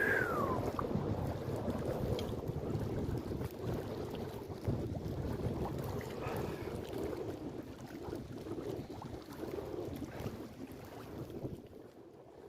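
Wind buffeting the microphone in gusts, an uneven low rumble that eases off near the end.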